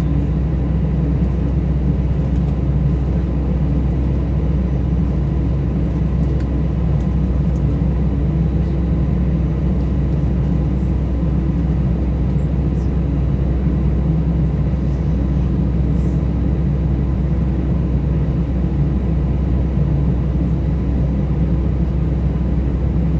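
Airbus A320 cabin rumble: the engines and airframe at low, steady power while taxiing, a constant deep drone with no rise in pitch or level.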